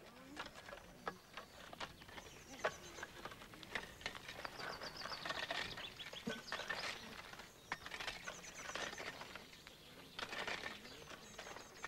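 Faint birdsong: small birds chirping and giving short, high trills several times, among scattered light clicks and rustles.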